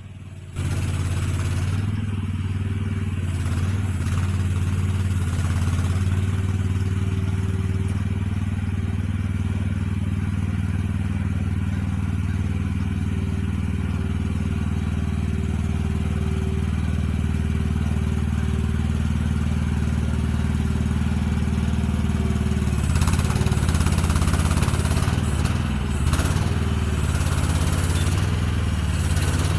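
An engine running steadily with a low, even hum that starts suddenly at the beginning and shifts in pitch and roughness about 23 seconds in.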